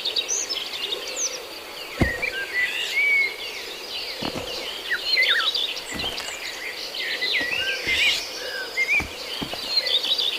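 Tropical forest ambience: many birds chirping and whistling over a steady insect drone. A few dull thuds land about two, four, six and nine seconds in.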